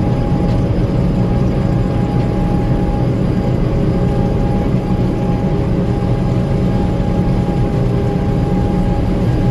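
Gleaner M2 combine running steadily under harvest load: a constant engine and threshing drone with a thin steady whine over it.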